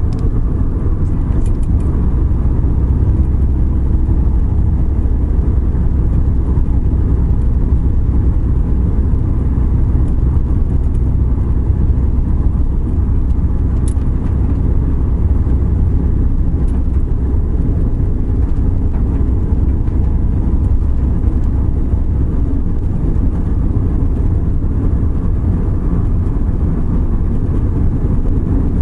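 Suzuki Every Wagon kei van driving on a wet road: a steady low engine and road rumble that holds even throughout, with a few faint ticks.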